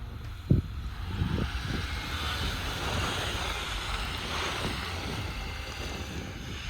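Truck engine running under a rush of wind noise that swells through the middle, with one sharp thump about half a second in.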